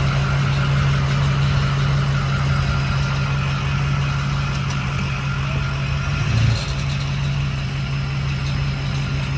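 Vehicle engine idling steadily with a low hum. There is a brief change in its sound about six and a half seconds in.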